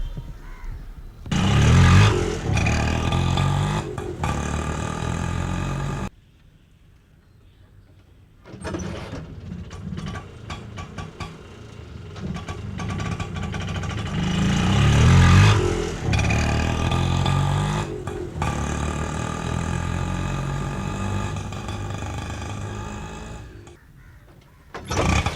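Auto rickshaw's small single-cylinder engine running and revving, swelling up about a second in and again around the middle. The engine sound drops away abruptly about six seconds in, comes back after a couple of seconds, and fades briefly near the end.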